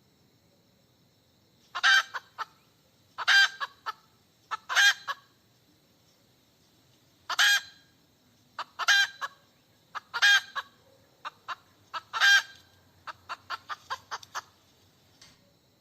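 Hen cackling: about seven loud, drawn-out squawks, each followed by a few short clucks, then a quick run of short clucks near the end.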